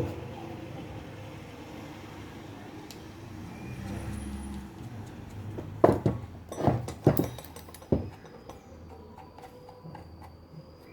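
A few sharp metal knocks and clinks close together about six seconds in, from starter motor parts and tools being handled, after a stretch of low background noise.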